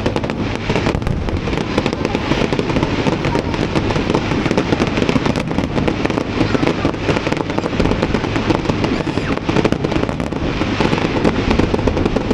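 Fireworks going off in a dense, rapid volley of bangs and crackles, starting abruptly.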